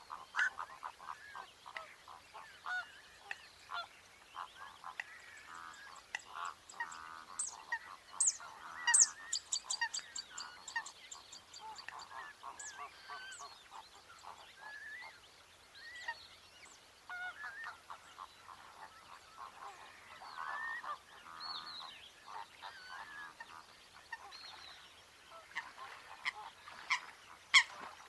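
Coots calling: many short calls overlapping, with a few sharper, higher notes about a third of the way in and again near the end.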